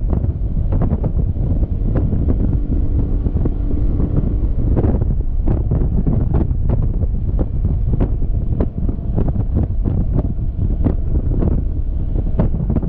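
Heavy wind buffeting the action camera's microphone on a Yamaha XMAX scooter moving at highway speed. It is a steady, loud rumble with many sharp taps and cracks running through it.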